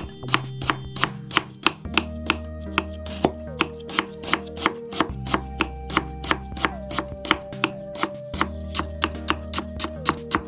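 Quick, even knife strokes, about four a second, of a cleaver slicing lemongrass thinly against a wooden chopping block. Background music with held tones and a stepping bass line plays underneath.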